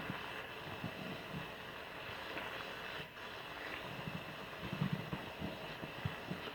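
A soapy car sponge being squeezed and worked into a lather: a steady wet hiss with irregular soft squishes and thumps, the strongest cluster about five seconds in.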